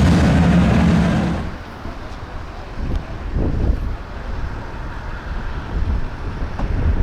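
A loud, steady-pitched engine-like rumble cuts off about a second and a half in. Low rumbling wind noise on the microphone follows, with a couple of brief swells.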